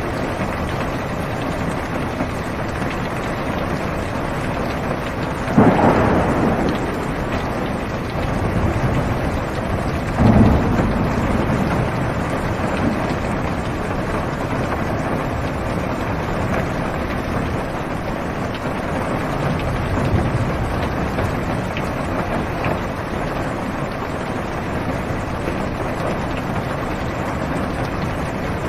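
Steady rain falling on a car's roof and windows, heard from inside the car. A sudden thunderclap comes about five and a half seconds in and a second, deeper clap near ten seconds, with thunder rumbling on after it and again about twenty seconds in.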